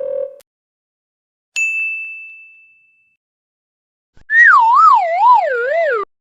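Two stock sound effects: a single bright ding that dies away over about a second, then about two seconds later a loud wavering tone that slides downward with a wobble about twice a second and cuts off abruptly.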